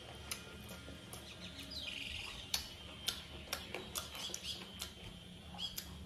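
Close-up eating sounds of a person chewing chicken leg meat: wet mouth clicks and lip smacks, coming thickest from about halfway on, with a bite into the leg near the end.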